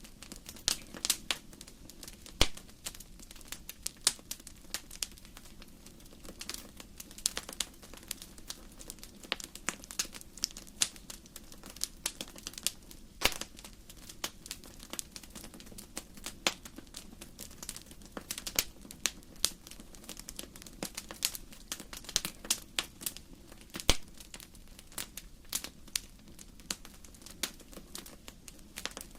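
Wood fire crackling, with many irregular sharp pops and snaps over a low steady hiss.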